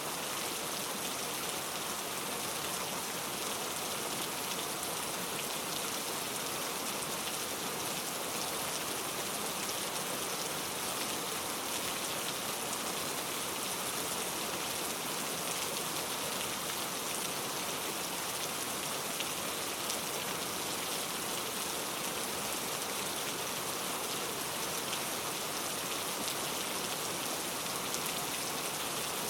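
Steady heavy rain falling on a surface, an even hiss with fine drop patter and no thunder.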